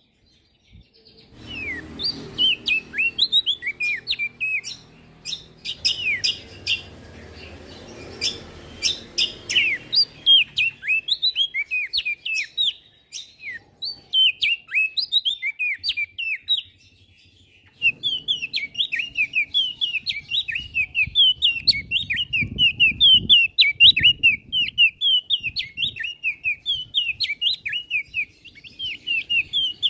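A prenjak daun songbird singing a fast, unbroken chatter of short high chirps, each sweeping down in pitch, starting after a brief pause.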